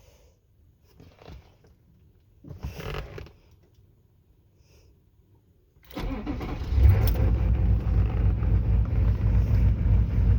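A GM 6.5-litre turbo diesel V8 starts about six seconds in and runs loud with an even, pulsing lope from its loped tune. Before it there are a few faint handling noises and a short louder rustle.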